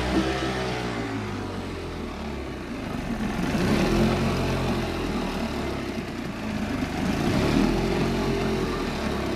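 Early-1990s Evinrude 25 hp commercial two-stroke outboard running, its pitch rising and falling twice as the throttle is opened and eased back. The owner says it runs a little rich and doesn't like to hold a low idle in neutral.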